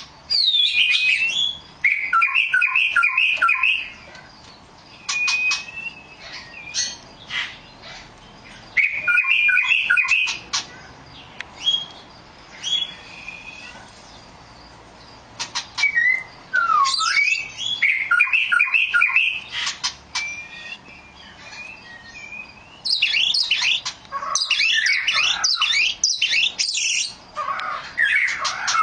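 Oriental magpie-robin singing: loud bursts of fast, varied whistled and chattering phrases, separated by quieter pauses with single notes and short sharp calls.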